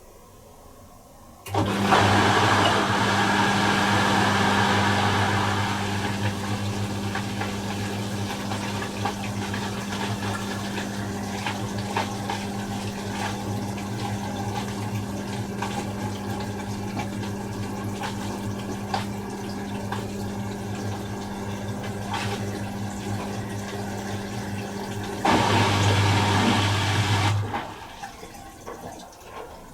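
Miele Little Giant PWM 507 commercial washing machine draining its first-rinse water at the start of the intermediate spin: a steady pump hum with rushing, gurgling water and light knocks, starting suddenly about a second and a half in. It gets louder for a couple of seconds near the end, then cuts off.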